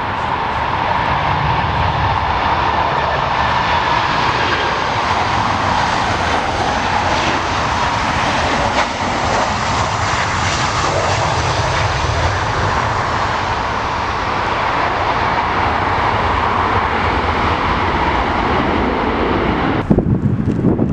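Jet airliner's engines running loud and steady as the aircraft passes the airfield, a dense rushing noise with a tone near the middle. It cuts off abruptly near the end.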